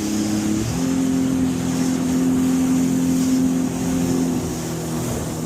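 Jet ski engine running hard. Its pitch steps up about a second in, holds steady, then eases off a little near the end, over a rushing hiss of wind and water.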